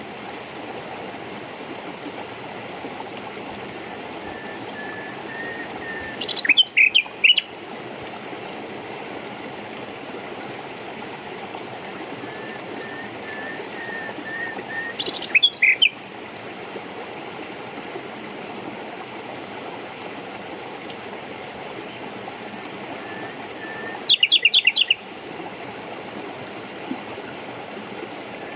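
A songbird gives three loud bursts of rapid, high chirps, about nine seconds apart, over the steady rush of running water. Softer, lower whistled notes come in between.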